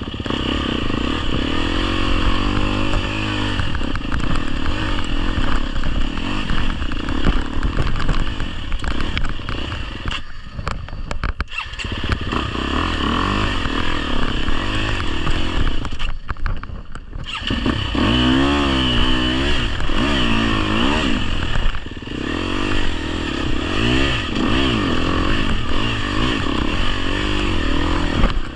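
GasGas EX250F enduro bike's 250cc four-stroke engine being ridden, its pitch rising and falling with the throttle. It drops away briefly twice, about ten and sixteen seconds in.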